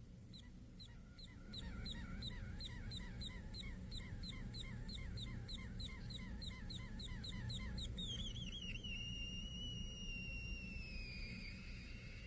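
Acapella plasma tweeter chirping as dust particles fly into its plasma arc: a quick run of short falling chirps, about four a second, then one longer tone that drops, holds steady and slides lower near the end, over a steady low hum.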